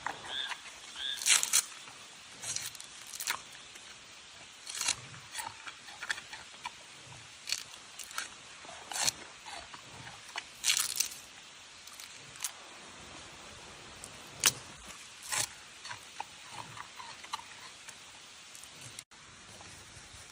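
Giant panda biting and chewing bamboo: irregular sharp cracks and crunches as the stalks split.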